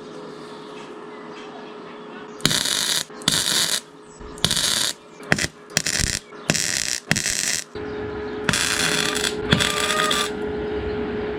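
Welding on a motorcycle exhaust tip: a run of short tack welds, each a crackling hiss of about half a second, starting a couple of seconds in, about nine in all. A steady hum with one held tone runs underneath.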